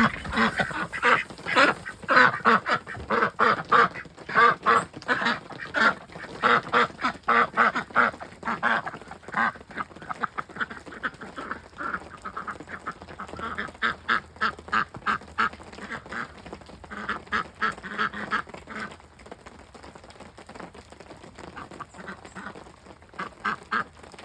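Ducks quacking in rapid runs of repeated calls, busiest over the first several seconds, then returning in shorter bouts with quieter spells between.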